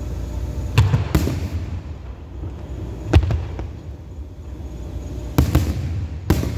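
Fireworks shells bursting: about six sharp bangs at uneven gaps over a steady low rumble.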